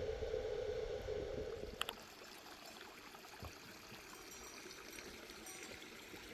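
Quiet spring water running as a steady murmur. In the first two seconds a louder steady rushing noise covers it, then cuts off with a click.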